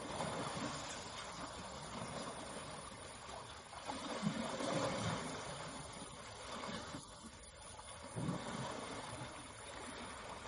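Water splashing and sloshing, with heavier low splashes about four seconds in and again near eight seconds.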